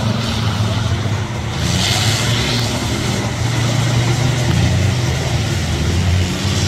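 Engines of off-road SUVs running steadily as they climb a loose dirt-and-gravel course, with a brief hiss about two seconds in.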